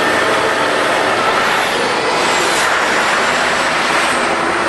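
Scania V8 diesel truck engine running steadily and loudly, with a heavy rushing noise over it.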